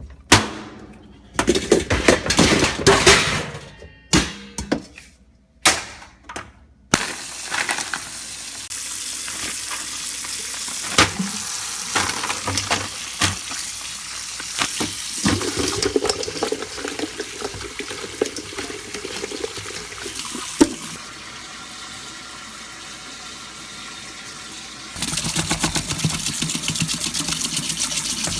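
Pots and pans clanking and knocking in a kitchen, then a tap running into a sink for a long stretch, with dishes clinking in the water.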